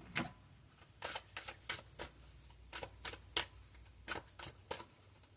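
A deck of tarot cards being shuffled by hand: a steady run of short, crisp card slaps, about three a second.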